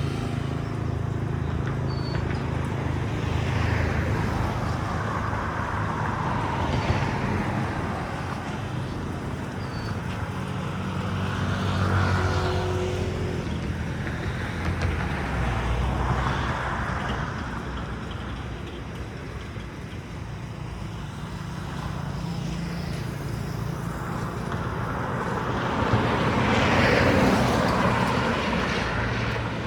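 Road traffic, with vehicles passing one after another; the loudest pass comes near the end.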